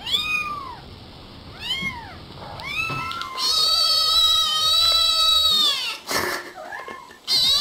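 Cat meowing: three short meows that rise and fall in pitch, then one long drawn-out meow lasting about two and a half seconds. A brief rustling burst follows, and another long meow begins near the end.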